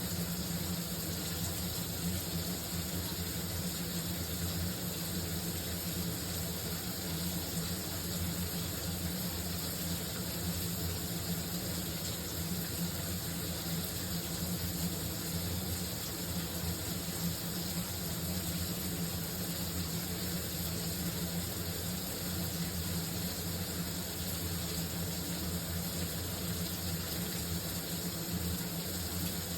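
A shower running steadily: a continuous rush of spraying water with an even low rumble underneath and no change throughout.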